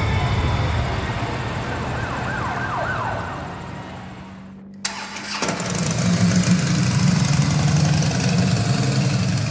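Motorcycle engine running on the move with wind noise. The sound fades down about four seconds in, cuts back in abruptly just before five seconds, and from then on the engine runs louder and pulses.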